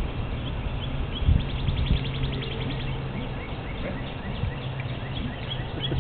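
Small birds chirping repeatedly, with a fast trill of rapid notes about two seconds in, over a steady low hum.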